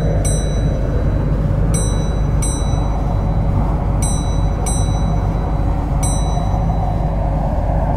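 An electronic chime sounding in pairs of short, ringing notes, a pair about every two seconds, over the steady low rumble of an MTR Kwun Tong Line C-Train. The chiming stops shortly before the end.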